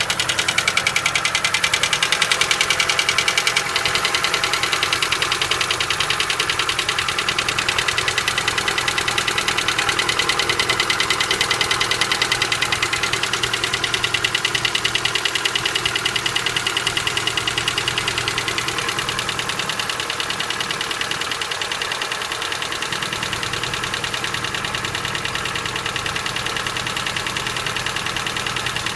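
Engine idling with a fast, steady ticking from the hydraulic valve lifters: hydraulic lifter knock.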